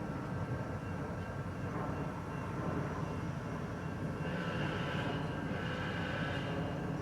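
SunRail commuter train running, a steady drone with several held tones; a hiss swells about four seconds in and fades near the end.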